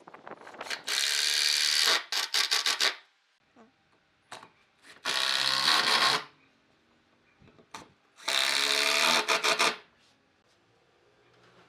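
A power tool run in three short bursts of about a second each, with a quick run of sharp strokes right after the first burst.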